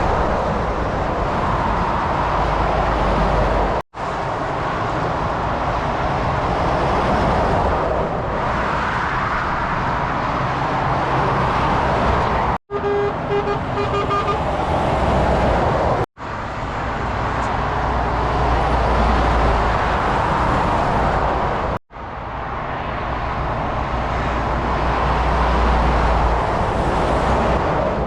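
Heavy motorway traffic, trucks and cars passing at speed, a steady rush of tyre and engine noise, cut off abruptly several times between clips. About halfway through, a truck's horn gives a quick run of short toots.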